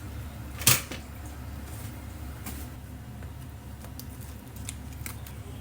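A single sharp knock, like a door or cupboard shutting, about a second in, then a few light clicks over a steady low hum.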